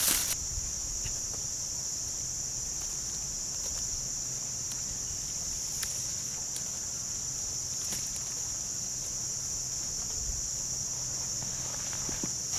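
Steady high-pitched insect chorus in the woods, an unbroken shrill drone with a few faint clicks scattered through it.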